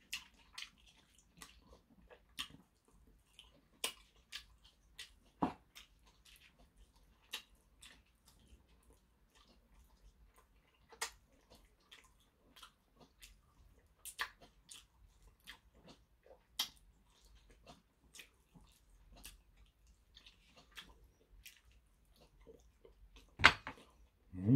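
Close-up chewing and biting on a chicken drumstick coated in chili sauce: irregular wet clicks and smacks of the mouth and teeth working the meat, with one louder click near the end.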